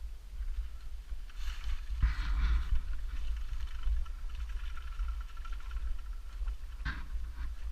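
Steady low rumble with hissing wind-like noise on a GoPro's microphone while an off-road vehicle is moving, with a short knock near the end.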